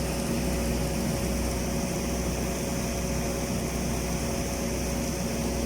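Steady hum of an automatic girth welding machine and its welding power source running during a capping pass, a low drone with a couple of constant tones above it.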